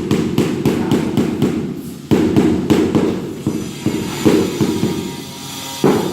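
Steel trowel working sand-and-cement mortar: a rapid run of knocks and slaps, about three or four a second at first, with fresh hard strikes about two seconds in, a little after four seconds and near the end.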